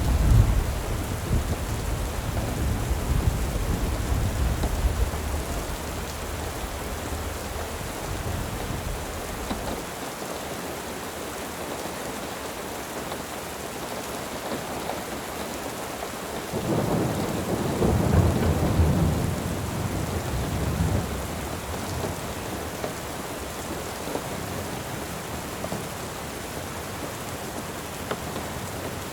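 Steady rain with rolling thunder: a low rumble dies away over the first ten seconds, and a second rumble swells up about halfway through, then fades.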